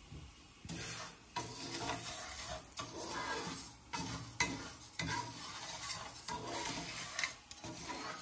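A wooden spoon stirring uncooked rice frying in a nonstick pan, the grains scraped around in repeated short strokes over a light sizzle of hot oil as the rice toasts.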